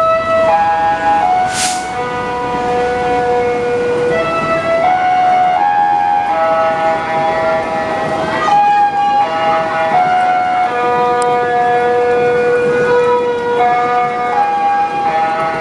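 A slow melody of held electronic tones stepping between a handful of pitches, played over a railway station's public-address speakers. There is a short hiss about a second and a half in.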